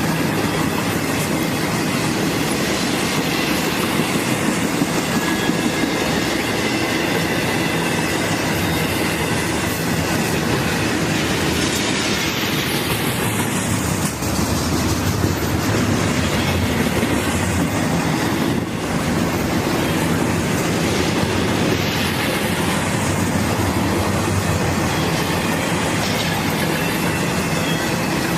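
Norfolk Southern freight train rolling past at steady speed, its wheels clicking over the rail joints, with a faint thin wheel squeal.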